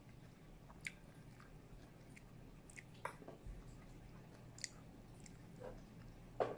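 A person chewing a taco with the mouth closed, faint wet mouth sounds with a few short clicks and smacks, the loudest one near the end.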